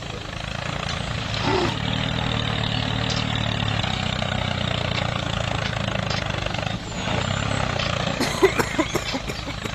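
Motor of a DIY mini tractor running steadily with a fast, even pulse. It dips briefly about seven seconds in, and a few short clicks come near the end.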